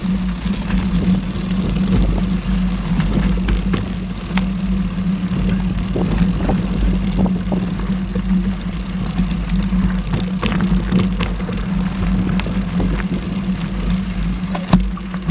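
Mountain bike riding over a trail: a steady hum from the tyres and the ride, with scattered clicks and knocks from the bike rattling over the ground, thickest about two-thirds of the way through.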